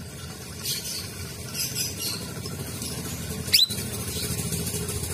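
Cucak rawis (burung bayeman) calling: scattered high chirps, then one loud, quick rising whistle about three and a half seconds in.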